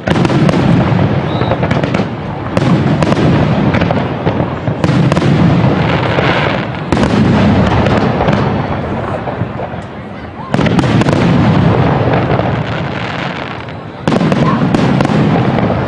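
Aerial fireworks shells bursting one after another, about every two to four seconds. Each loud, sudden burst is followed by a dense tail that slowly fades before the next burst.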